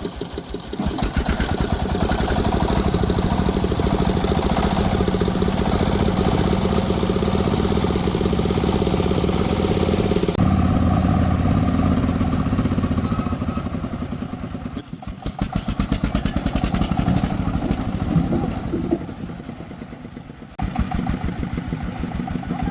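Engine of an agricultural timber-hauling vehicle running steadily with a rapid regular beat, its sound changing abruptly about ten seconds in and dipping briefly twice in the second half.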